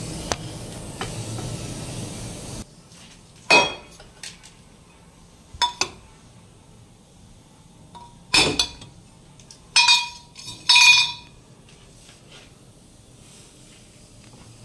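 Metal tools and car parts knocking together in a workshop: about five sharp clinks that ring briefly, spread over several seconds. A steady rushing noise cuts off about three seconds in.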